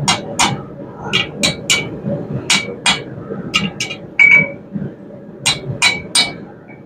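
Hand hammer striking hot half-inch round steel bar on an anvil, about a dozen ringing blows in irregular groups, with the loudest a little past the middle. This is finishing hammer work on a forged tripod leg.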